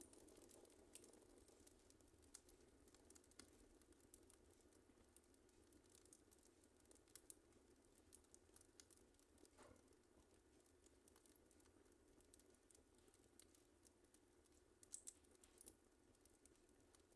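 Wood fire crackling faintly: scattered small pops and snaps over a soft hiss, with a slightly louder crackle about ten seconds in and a couple more near the end.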